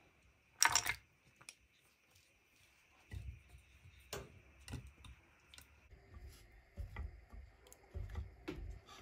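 Light clicks and soft knocks of small objects being handled, with one short, louder rustling scrape about half a second in.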